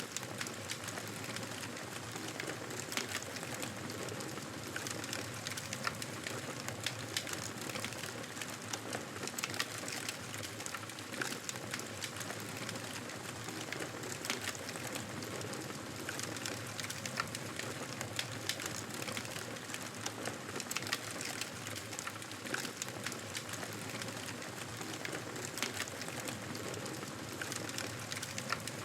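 Campfire burning, a steady hiss with frequent small crackles and pops scattered throughout.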